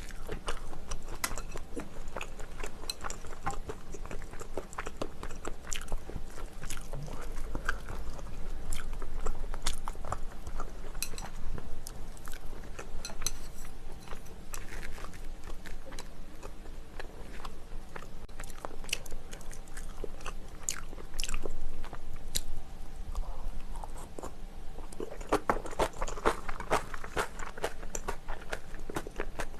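A person chewing and biting into spicy chicken close to the microphone: a steady run of small crunches and wet mouth clicks, busier near the end.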